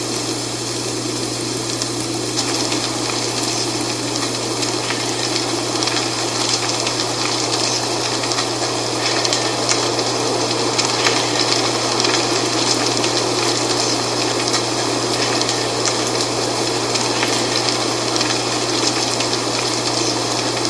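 Wind blowing through dry fall leaves: a steady rustling hiss with fine crackles, over a steady low hum.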